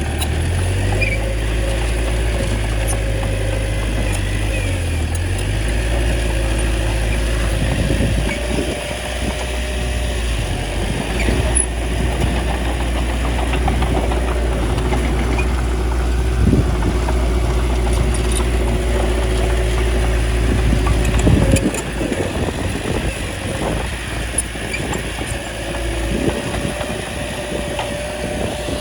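Small bulldozer's diesel engine running steadily as it pushes soil, its note shifting a few times, with scattered knocks.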